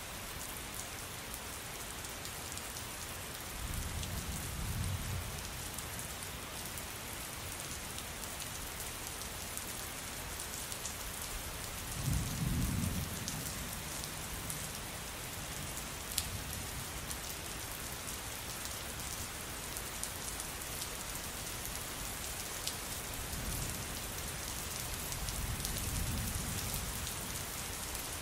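Steady rain falling, with scattered drops ticking against a surface. Thunder rumbles low three times, the strongest about twelve seconds in, the others near the start and near the end.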